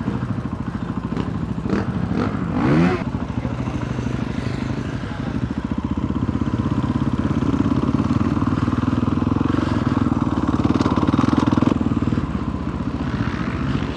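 Dirt bike engine running as the bike is ridden, building a little about halfway through and easing off near the end.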